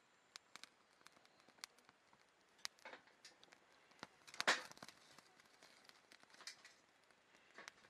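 Wood campfire crackling with irregular small pops, and one louder crackle about four and a half seconds in.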